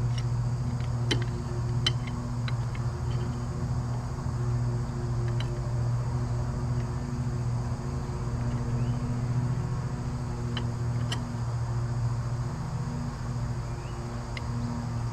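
A steady low mechanical hum, with a few sharp metallic clicks and taps scattered through it.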